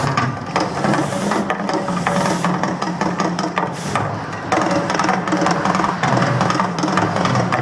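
Percussion-driven soundtrack of the Mirage volcano eruption show playing loudly over outdoor speakers, with many sharp drum hits. A few short hissing bursts come in the first four seconds.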